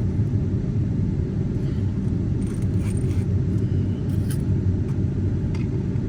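Steady low rumble of a running car heard from inside the cabin, with a few faint ticks.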